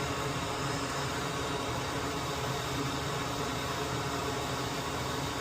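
Steady fan-like hiss with a low hum underneath, unchanging, with no clicks or knocks.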